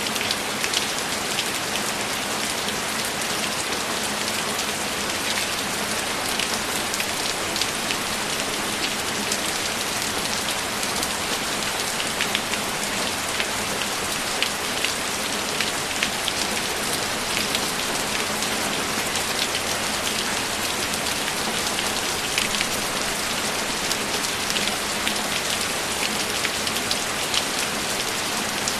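Steady rainfall, an even hiss with individual drops ticking sharply as they hit.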